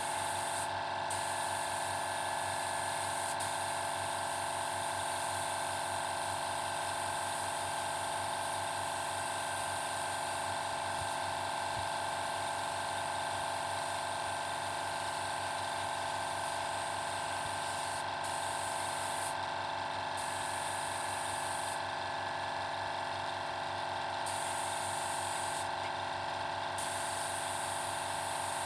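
Motor-driven paint-spraying equipment running steadily: a constant electric motor hum with an airy hiss on top. The high hiss cuts out briefly several times in the second half while the hum carries on.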